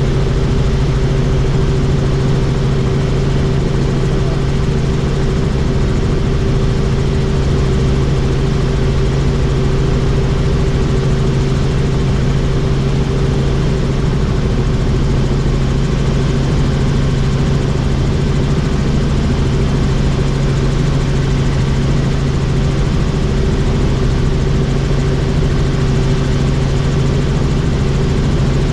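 Helicopter in flight, heard from on board: a loud, steady drone of rotor and engine that holds two unchanging tones with no rise or fall.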